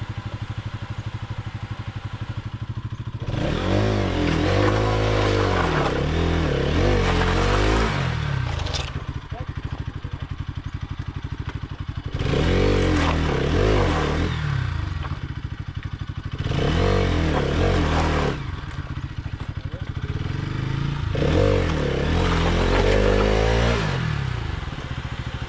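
Motorcycle engine idling, revved hard four times in bursts of a few seconds each, its pitch climbing and falling with each burst.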